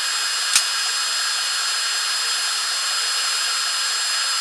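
TIG welding arc on thin steel, a steady hiss with a thin high-pitched whine, after a sharp click about half a second in.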